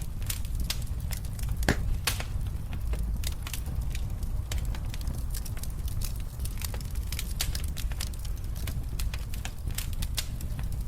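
Fire in a fireplace crackling, with irregular pops and snaps over a steady low rumble. The sharpest pop comes about two seconds in.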